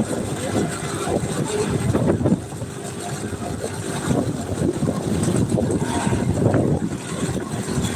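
Vehicle and road noise on the move, a steady rumble and hiss, with voices mixed in.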